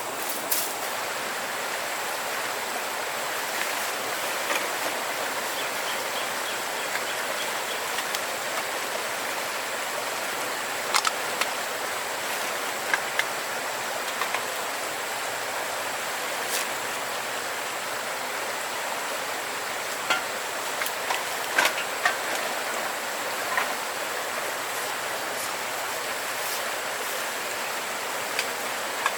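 Steady rushing of flowing river water, with scattered sharp clicks and knocks.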